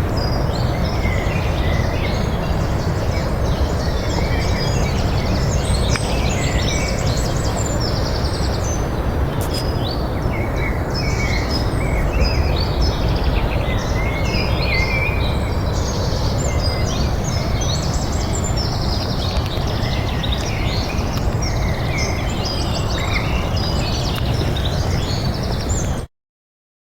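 Many small birds chirping and singing at once, a dense chorus of short, quick calls, over a steady low rumble. The sound cuts off abruptly near the end.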